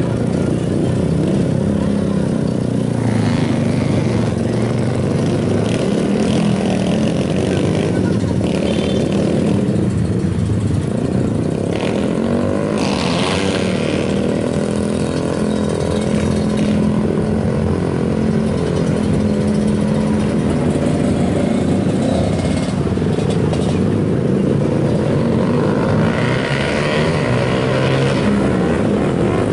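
Modified Yamaha Vixion motorcycle's single-cylinder four-stroke engine running at low revs as it is ridden slowly, the pitch rising briefly a few times.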